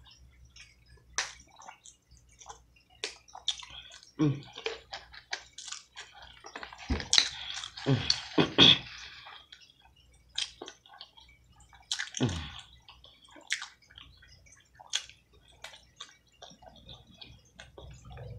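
Close-miked wet eating sounds: chewing saucy chicken, with many short wet mouth clicks and smacks, and a few louder squelchy bursts a little past the middle.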